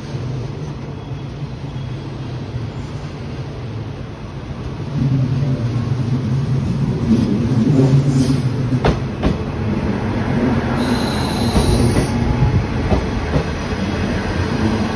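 Train pulling into a station platform: a steady low engine hum that grows louder about five seconds in as it draws alongside, a few sharp clacks of wheels over rail joints, and a brief high-pitched squeal about two-thirds of the way through.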